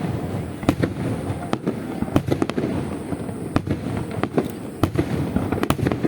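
Fireworks display: many sharp, irregular bangs and cracks of bursting shells over a continuous rumbling din.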